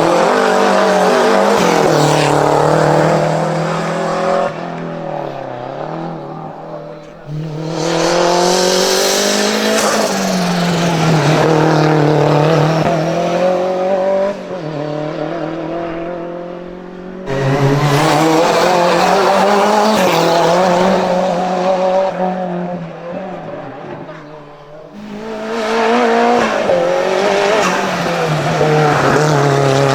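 Hill-climb race car engines at high revs, the pitch climbing and dropping again and again with gear changes and lifting off for corners. There are several loud stretches of a few seconds each with quieter dips between them.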